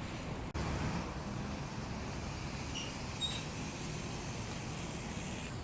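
Steady outdoor background rumble of distant city traffic, with a brief dropout about half a second in and a few faint short high chirps near the middle.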